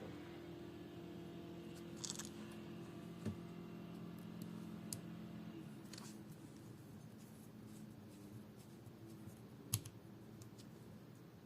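Scattered small clicks and taps of tools and tiny parts being handled during smartwatch reassembly, the sharpest about ten seconds in. A low steady hum runs underneath and stops about halfway through.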